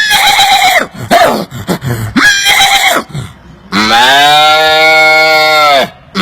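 A man imitating animal calls with his mouth: several short pitched calls in the first three seconds, then a long, low, drawn-out call lasting about two seconds, with another long call starting near the end.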